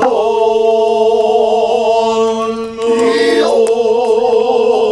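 Noh chanting (utai) in the Kanze style: a voice holds a long sung syllable with a slow, wavering vibrato, breaks briefly about three seconds in, then holds another long note.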